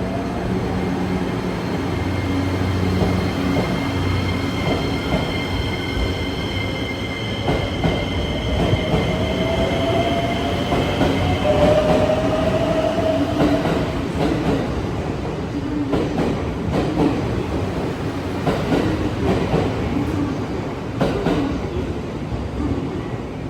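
JR West 287 series electric train pulling away and accelerating. Its traction motors give a whine that rises in pitch partway through. In the last third the wheels knock rhythmically over the rail joints.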